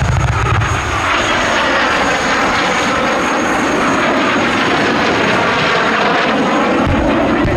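BAC Strikemaster's Rolls-Royce Viper turbojet, loud and steady as the jet flies a low strafing pass, with a sweeping, phasing quality as it goes by. A deep rumble sounds in the first second and again near the end.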